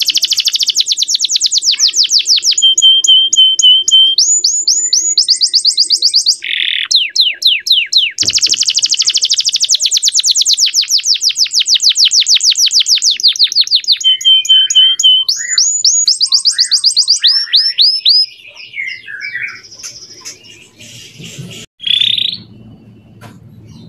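Male canary singing loudly in fast trills: runs of rapidly repeated downward-sweeping high notes, changing from one phrase to the next, with a few short held whistled notes between them. The song breaks off about 18 seconds in, leaving only faint scattered chirps.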